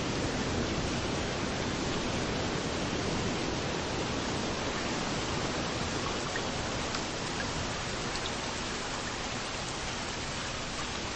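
Steady rain hissing, with waves washing on the beach underneath, the low surf easing slightly in the second half. A few separate raindrop ticks stand out in the second half.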